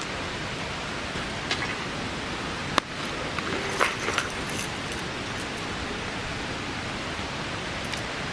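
Steady heavy rain falling, an even rushing hiss. A few small knocks and rustles come between about one and a half and four seconds in, the sharpest a single click near the middle.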